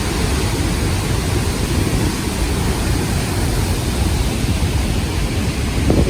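A large waterfall heard close up: a loud, steady rush of falling water and spray, heaviest in the low end.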